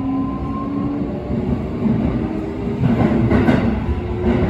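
Sanyo 6000 series electric train running, heard from inside the car in a tunnel: the Mitsubishi IGBT VVVF inverter and traction motors give thin whining tones that step up in pitch, over steady wheel and rail rumble. A louder rush of rail noise comes about three seconds in.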